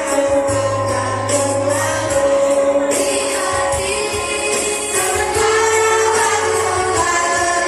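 Elementary school children's choir singing a held, slow melody in unison over a musical accompaniment with a sustained low bass line.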